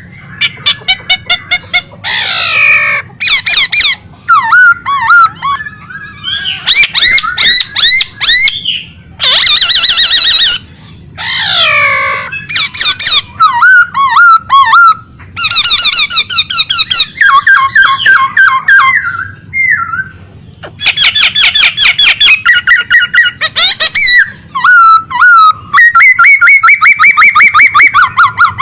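A songbird singing loudly and without pause: a varied string of fast trills, rapid repeated chirps and whistled notes, with brief breaks between phrases.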